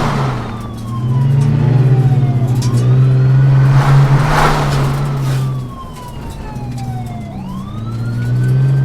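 Police car siren wailing: its pitch slides slowly down, then sweeps quickly back up, twice, over a car engine running. The engine swells loud, drops back about six seconds in, and rises again near the end, with a brief rushing pass about four seconds in.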